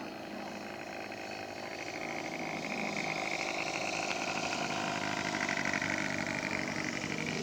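Model-aircraft engine of a third-scale radio-controlled Nieuport 17 biplane, running steadily on its landing approach and growing slowly louder as it comes in.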